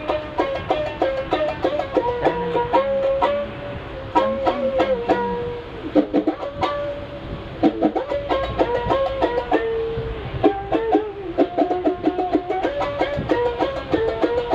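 A plucked string instrument playing a fast melody of rapidly repeated, quickly decaying notes that step up and down in pitch, with a steady low rumble underneath.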